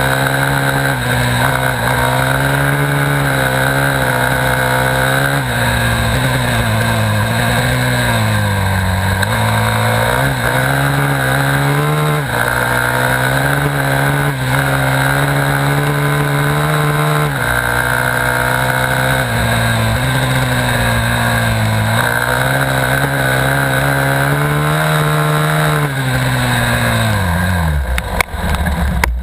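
Dirt bike engine racing hard on a hill climb, its pitch repeatedly climbing and dropping back every few seconds as it is ridden. Near the end the engine note falls away sharply.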